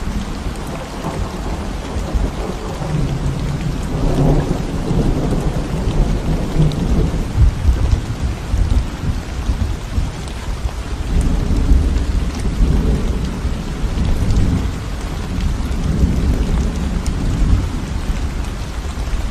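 Steady rain falling on a concrete road and the plants around it, under a deep low rumble that swells and fades several times.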